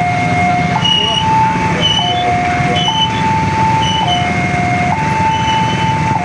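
Railway level crossing warning alarm sounding, an electronic two-tone signal alternating steadily between a lower and a higher pitch, each held about a second, over a continuous low vehicle rumble.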